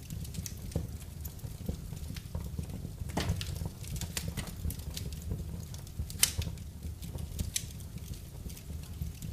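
Wood fire crackling in a fireplace: irregular sharp pops and snaps over a steady low rumble of the flames, the loudest pop about six seconds in.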